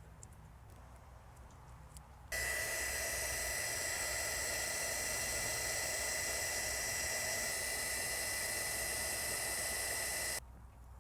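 Mini heat gun switched on about two seconds in, its fan and hot air giving a steady hiss with a high whine, then switched off abruptly near the end, shrinking heat-shrink tubing over a spliced wire.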